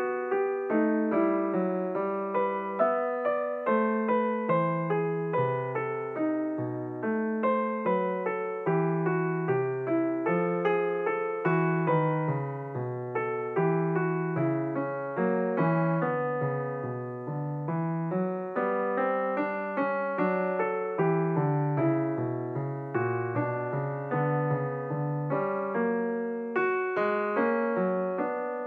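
Background piano music: a light, steady melody of quick notes that sound and fade.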